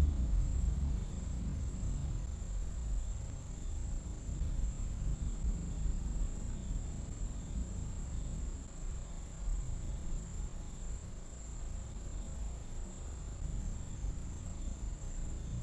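Distant thunder rumbling continuously, a low rolling roar that swells and eases and is strongest near the start. Over it, night insects keep up a steady high-pitched trill.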